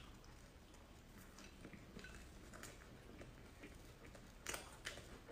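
Faint eating sounds from a mouth chewing soft cream puff: small wet clicks and smacks. A few louder clicks come about four and a half seconds in.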